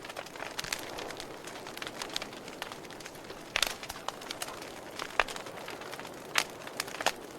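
Wood fire crackling in a fireplace: a steady hiss with scattered sharp pops, a few louder ones in the second half.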